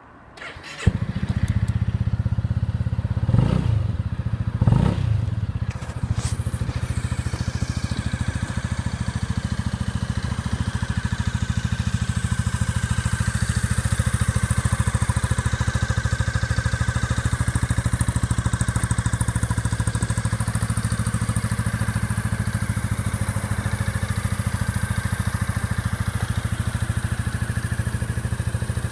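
Honda Forza Z (MF10) 250 cc single-cylinder scooter engine breathing through a Moriwaki aftermarket muffler: it starts up about a second in, is blipped twice briefly at around three and five seconds, then settles into a steady idle.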